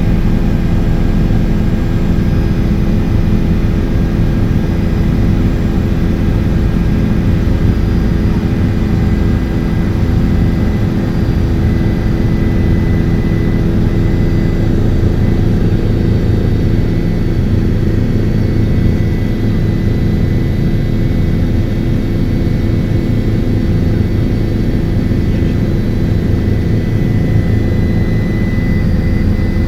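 Helicopter in flight: a steady, loud drone of rotor and turbine engine, with several constant low tones and no change in pitch.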